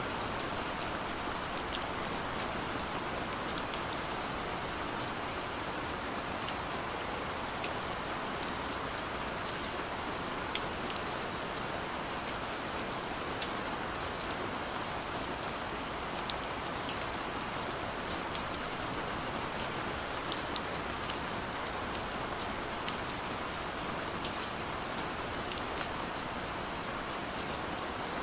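Steady gentle rain falling, an even hiss with scattered drops ticking on a surface.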